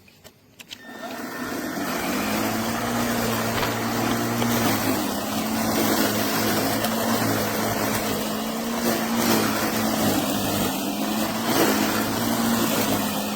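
LawnMaster brushless cordless lawn mower's motor and blade coming up to speed about a second in, then running with a steady hum while cutting tall grass without bogging down.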